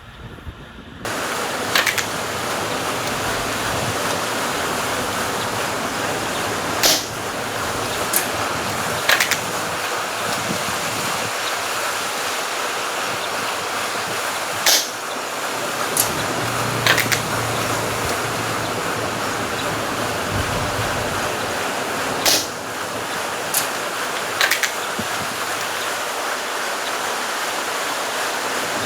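Strong wind rushing over the microphone in a steady roar, starting about a second in. About ten sharp clicks and snaps stand out over it, from a VSR-10-type spring bolt-action airsoft sniper rifle being fired and its bolt cycled, spread out in small groups.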